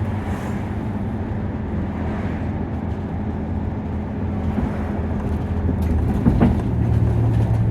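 Nissan Diesel KC-UA460LSN city bus's diesel engine running on the move, heard from inside the passenger cabin. The engine note grows louder in the second half, and there is a short click about six and a half seconds in.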